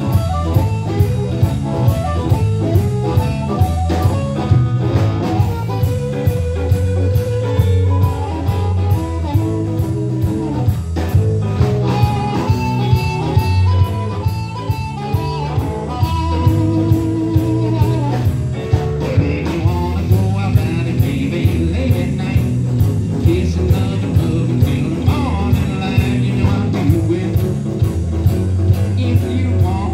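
Live blues band playing a song with a steady beat of about two beats a second: electric guitar, bass and drums, with harmonica lines.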